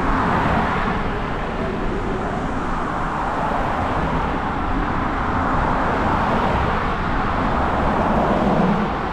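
Steady rushing road noise from riding a bicycle downhill along a road with car traffic: an even hiss with no clear pitch over a low, uneven rumble.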